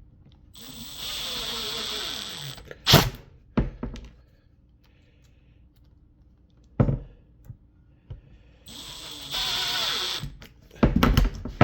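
Power drill driving screws into a cabinet hinge: two runs of about two seconds each, the first dropping in pitch toward its end, with sharp knocks between and after them.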